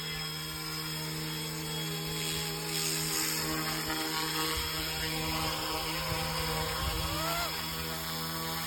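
Small RC helicopter's electric motors whining steadily in flight, with a second, higher tone that wavers and rises, then dips, about seven seconds in as the motor speed changes.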